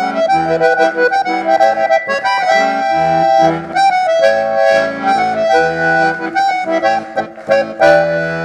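Accordion (sanfona) playing an instrumental baião passage between sung verses: a melody of held notes over pulsing bass notes.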